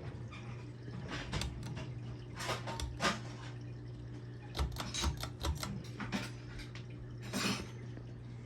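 Electric fan motor humming steadily, with scattered light metallic clinks and rattles, some in quick clusters.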